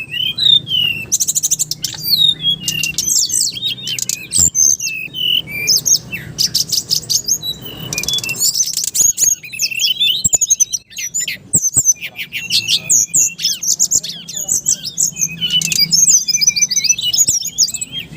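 Brown-chested jungle flycatcher (sikatan rimba dada coklat) singing loud and clear: a fast, varied run of high chirps, whistles and rapid trills with hardly a pause.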